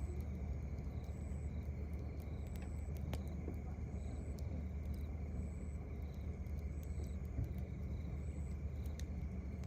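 Campfire crackling with scattered sharp pops, over crickets chirping in a steady rhythm and a steady low rumble underneath.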